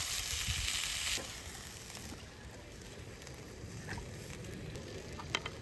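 Food sizzling in a skillet, loud for about the first second and then fainter, with a few sharp clicks near the end.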